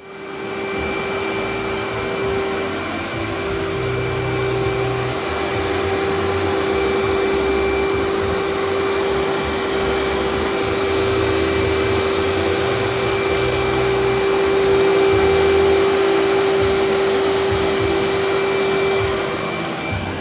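Cyclonic canister vacuum running steadily with a constant whine, vacuuming hair and sand out of carpet.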